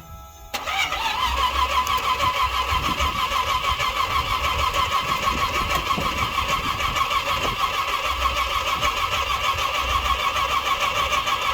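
The 1967 Chevy Nova's supercharged small-block V8 (671 BDS blower) being started, with a steady, rapidly pulsing mechanical sound that begins about half a second in and stops abruptly at the end.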